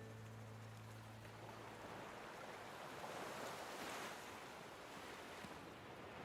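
Faint sea waves washing, swelling a little about halfway through.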